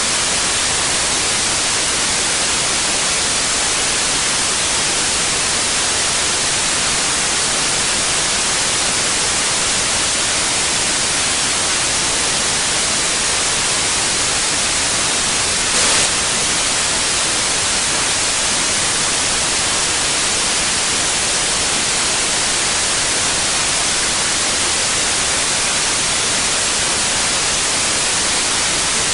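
Steady white noise, an even hiss strongest in the highs, with one brief louder blip about sixteen seconds in.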